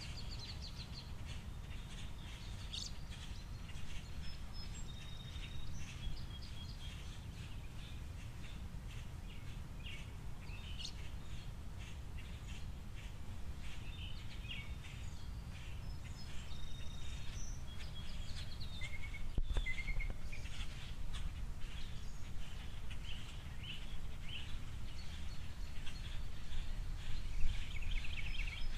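Small songbirds at a seed feeder chirping and twittering, many short high calls and brief trills coming and going, over a steady low rumble. A single sharp click about two-thirds of the way in.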